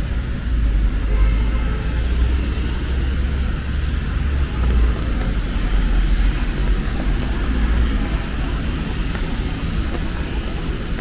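Street in the rain: a steady deep rumble of passing traffic with an even hiss of rain over it.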